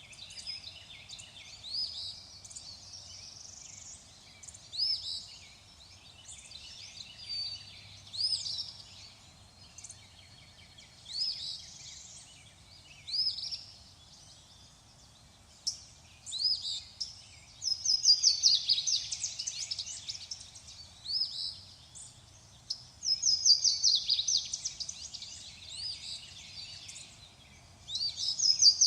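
Several wild birds singing: short whistled phrases every second or two, joined by bursts of fast trilled song about two-thirds of the way through and again near the end, the trills loudest.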